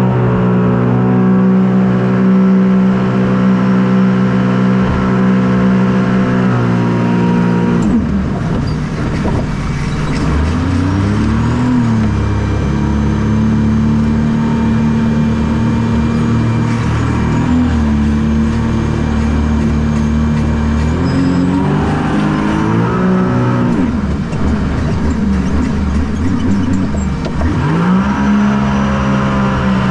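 Engine of a shark-shaped personal watercraft running hard, its pitch gliding up and dropping back several times as it revs and eases off. It drops sharply about eight seconds in, then revs up again in repeated surges.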